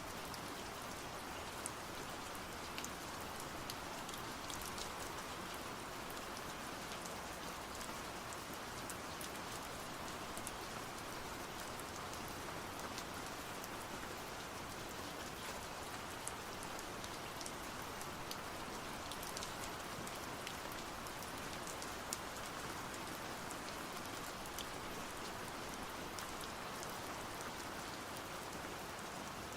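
Steady rain, a dense even patter with scattered sharper drop ticks.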